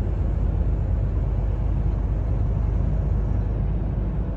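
Steady low rumble of a heavy truck's engine and running gear, heard from inside the cab.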